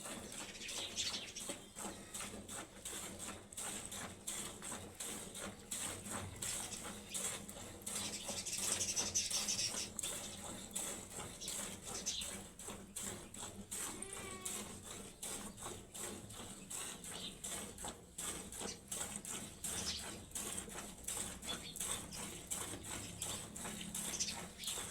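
Cow being milked by hand into a bucket: rhythmic squirts of milk striking the pail, one after another.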